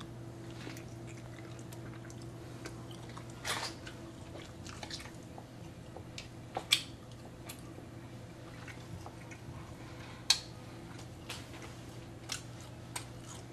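Quiet chewing and wet picking at soft canned chicken meat by hand, with a few sharp clicks scattered through it. A steady low hum runs underneath.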